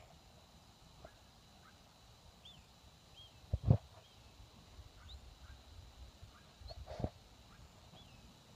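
Birds chirping, with short rising-and-falling calls scattered throughout, and two louder low bumps about four and seven seconds in.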